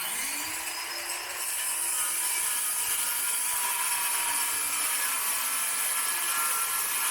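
Handheld circular saw starting up, its pitch rising over the first second, then cutting through a board at a steady full speed.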